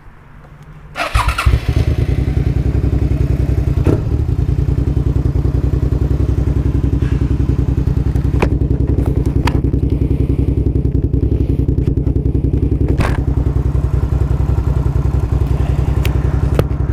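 Motorcycle engine started about a second in, catching at once and then idling steadily, with a few sharp clicks over it.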